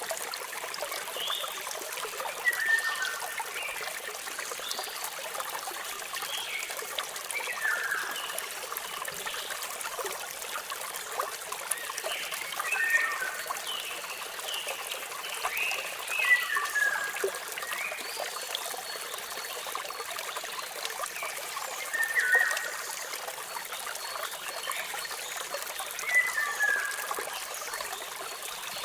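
Steady rush of falling water with birds chirping over it: a short call that drops in pitch comes back every few seconds, with fainter higher chirps between.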